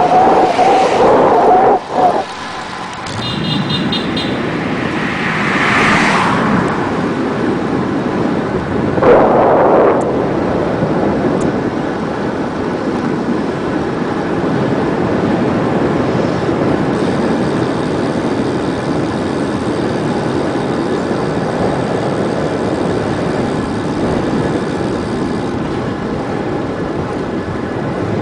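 Steady rushing of wind over the microphone and tyre noise from a bicycle coasting fast downhill, with brief louder swells about six and nine seconds in.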